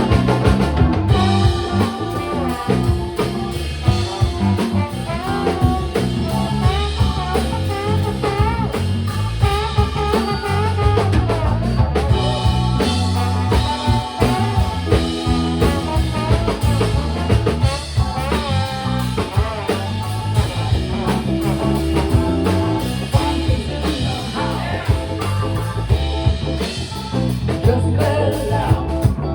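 Live funk band playing: drum kit, bass and electric guitar with singing, a steady driving beat throughout.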